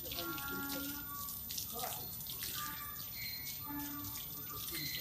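Running water spraying and splashing steadily as a dog is showered, with many small irregular splashes.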